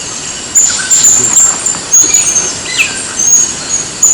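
Birds calling: a rapid series of short, very high chirps, with one falling whistle about halfway through.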